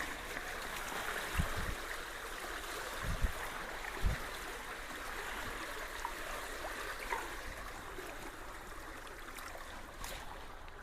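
Creek water rushing steadily through a culvert, a constant even flow, with a few dull low bumps in the first few seconds.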